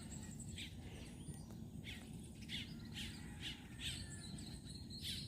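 Faint, repeated bird chirps, short calls about every half second to second, over a low steady background hiss.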